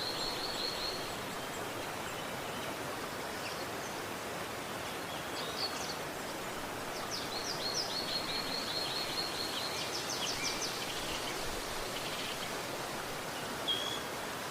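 River water running with a steady rush, and a small songbird singing over it: quick runs of high chirps near the start and again in the middle, with a single short note near the end.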